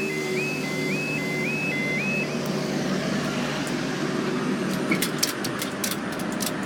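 Level crossing warning alarm sounding a repeating rising tone, about two a second, that stops a little over two seconds in, over the steady low hum of engines. A quick run of sharp clicks follows near the end.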